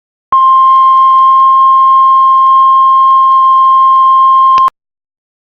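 Heart monitor flatline alarm: one continuous steady beep at about 1 kHz, held for about four seconds and cutting off abruptly, the sound of a monitor showing the heart has stopped.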